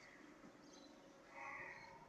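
Near silence broken by one faint, short bird call about a second and a half in.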